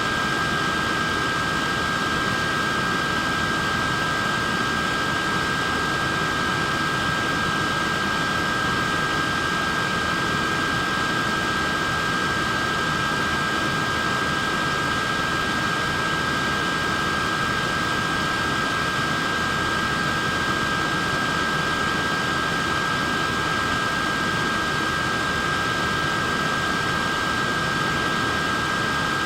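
Portable neck fan running steadily: an even rush of air with a constant high motor whine over it.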